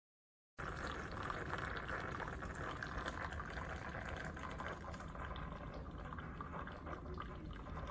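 Steady stream of liquid pouring into a container, starting abruptly about half a second in and running evenly until it cuts off at the end.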